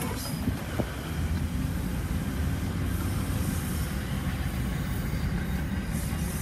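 Freight train rolling alongside with a steady low rumble, heard from inside a moving car together with the car's own road noise.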